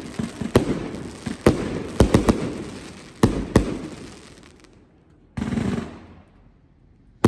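Chaos 100-shot firework cake firing: about six loud bangs of shells breaking in the first four seconds, with crackle between and after them. The crackle dies away to a lull, broken by a brief hiss about five and a half seconds in, and a rapid volley of bangs starts right at the end.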